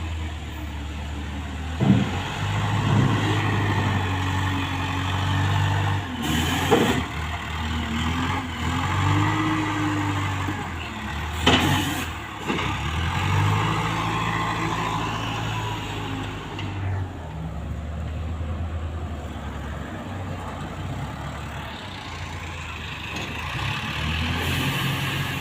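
Diesel engine of a small wheel loader working while it scoops cassava roots, its pitch rising and falling as it revs. A few brief sharp noises break in: about 2 seconds in, about 6 seconds in, and about 11 seconds in.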